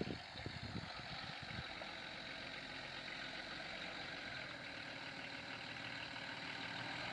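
Vehicle engine running steadily at idle, with a few low thumps in the first second and a half.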